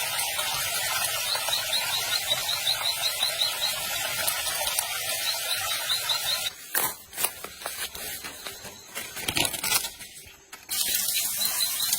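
Steady rush of a waterfall, with quick runs of high chirps over it. For a few seconds past the middle the rush drops away and several sharp knocks are heard, then the rush comes back.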